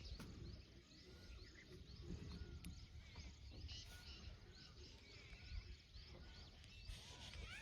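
Faint chirping of many small birds, short repeated calls overlapping, over a low background rumble.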